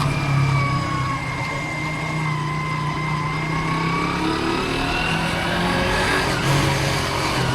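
Motorcycle engine running while riding, with wind and road noise; its pitch drifts slowly down and back up.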